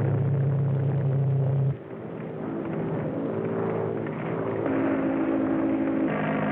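Propeller airplane engine droning steadily; its pitch and loudness shift abruptly about two seconds in and again near the end.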